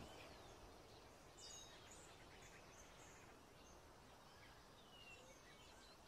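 Near silence: faint outdoor quiet with a few short, high bird chirps scattered through it, one of them falling in pitch near the end.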